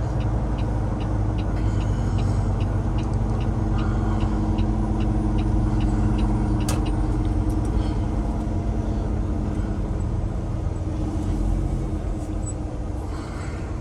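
Truck diesel engine, the Cummins X15 of a Peterbilt 389, running steadily under way, heard inside the cab. A turn signal clicks about three to four times a second for the first eight seconds or so during a lane change, then stops.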